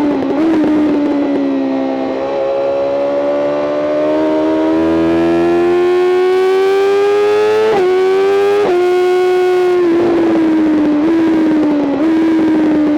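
BMW M 1000 RR's inline-four engine heard onboard on a track lap, revs climbing steadily under throttle, then two quick upshifts about eight seconds in. The revs then fall off with two short blipped downshifts near the end, as under braking for a corner.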